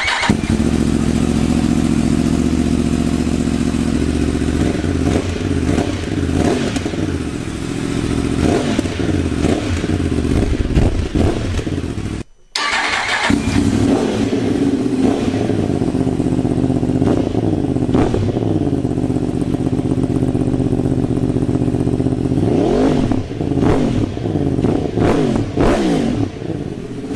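Motorcycle engine running through a new Arrow slip-on silencer and link pipe, idling steadily with the throttle blipped several times so the revs rise and fall. The exhaust note is not too offensive, suited to UK noise limits.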